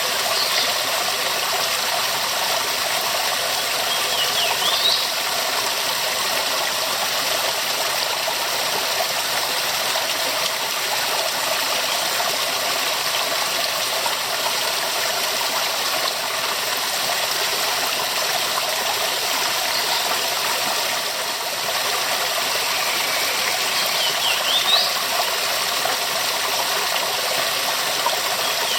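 Waterfall's steady rushing water, an even hiss with no let-up. A few short high chirps break through it around four to five seconds in and again near twenty-four seconds.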